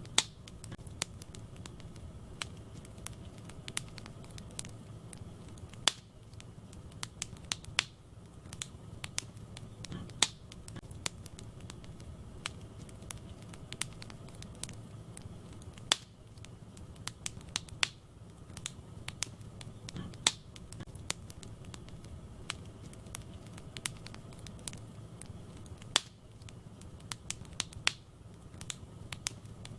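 Wood fire crackling in a fireplace: irregular sharp pops and snaps over a steady low rumble of the flames, with a few louder snaps now and then.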